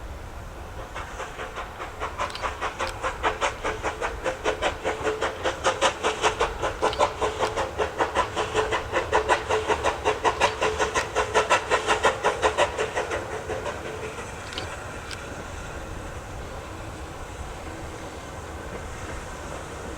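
Steam locomotive working past, its exhaust beats coming quickly and evenly. They grow louder, are strongest in the middle, and fade away about two-thirds of the way through, leaving a steady low rumble.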